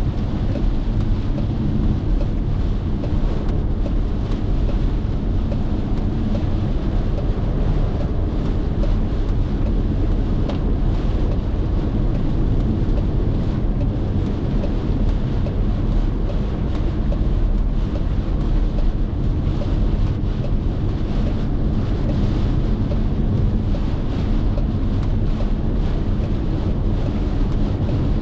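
Car driving on a highway: a steady low rumble of road and engine noise with wind noise.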